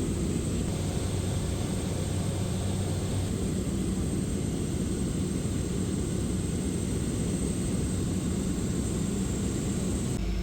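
Steady engine drone and hiss of a small airplane in flight, heard from inside the cabin. Near the end it changes abruptly to a lower, steadier hum.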